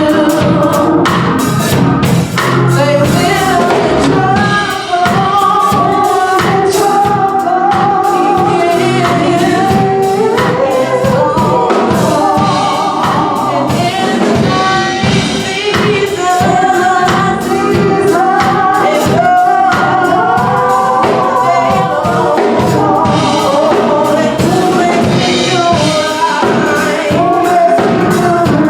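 Gospel music: voices singing a melody over instrumental accompaniment with a steady beat.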